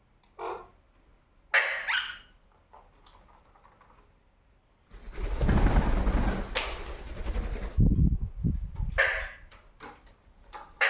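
Ringneck parakeet giving a few short, harsh squawks. Between them, about five seconds in, comes a loud rustling lasting about three seconds with some low thumps.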